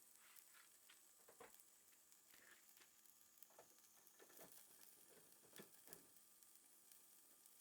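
Faint, scattered crackling and ticking from a charcoal fire, a few irregular snaps over a near-silent background.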